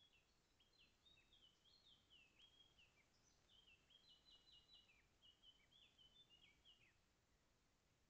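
Faint songbird song: a quick run of short high notes, many stepping or falling in pitch, stopping about a second before the end.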